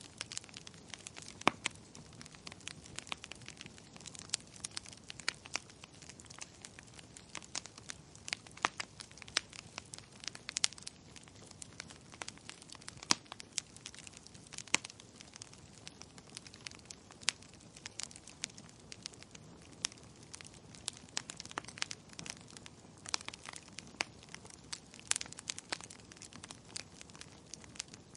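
Wood fire crackling, with irregular sharp pops and snaps several times a second over a soft steady hiss.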